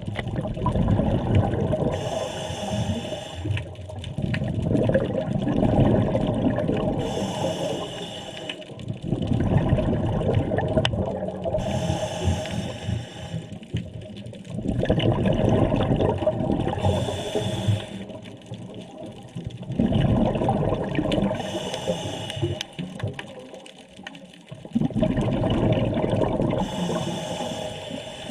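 Scuba diver breathing through a regulator underwater: a short hiss on each inhale, about every five seconds, each followed by a longer bubbling rush of exhaled air.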